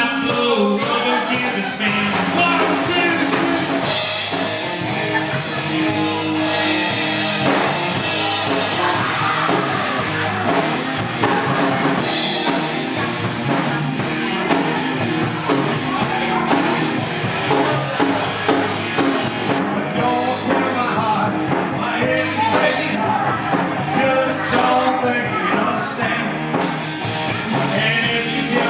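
A band playing a rock song with a singer's voice over the instruments.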